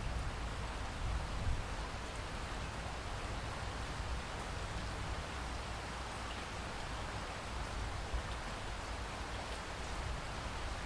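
Steady rainfall: an even, continuous hiss of rain with a low rumble underneath and a few slightly louder moments.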